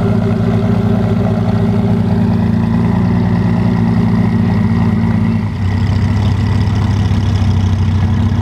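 A car engine running steadily at idle, loud and close, its low note changing about five and a half seconds in.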